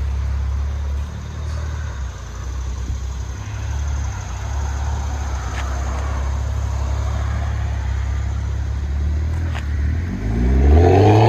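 Straight-piped exhaust of a BMW 535i's 3.0-litre turbocharged inline-six, with resonator and rear muffler deleted, heard from inside the cabin: a steady low drone, then the revs climb near the end.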